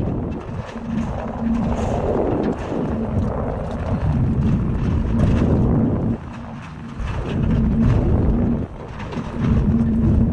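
Vehicle noise, strongest in the low range, with a steady low hum that comes and goes and two brief drops in level, about six and about eight and a half seconds in.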